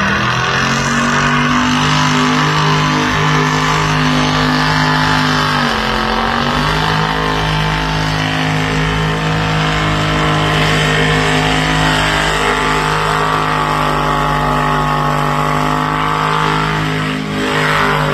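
Turbocharged Buick Roadmaster wagon engine held at steady high revs, with a hiss of tyre noise, as in a burnout. The revs dip briefly about six seconds in and again near the end.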